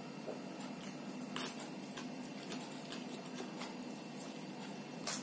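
Close-up sounds of a person eating with her fingers: chewing and mouth noises with a few sharp clicks, the loudest about one and a half seconds in and another near the end, over a faint steady hum.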